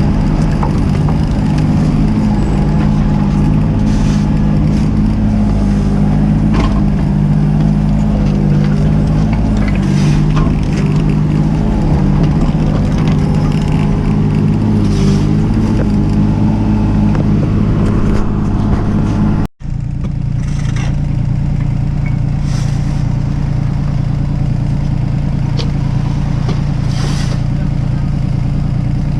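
Mini excavator's diesel engine running steadily, with occasional short knocks. It cuts out abruptly for an instant about two-thirds through, then carries on with a slightly different engine tone.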